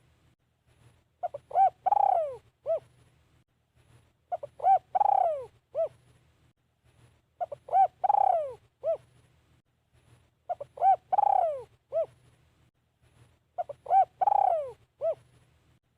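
Spotted dove (นกเขาใหญ่) decoy bird calling its cooing song, one phrase about every three seconds: two short coos, a longer falling coo, then a short final note. This is a decoy dove calling to lure wild doves.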